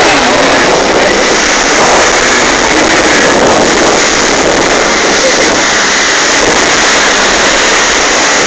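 Jet ski engine running, mixed with a loud steady rush of water and wind noise.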